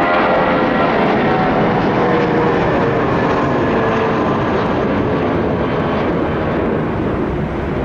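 Jet airliner passing close by: a loud, steady engine roar. In the first second or two, whine tones fall in pitch and fade out, and the roar eases slightly near the end.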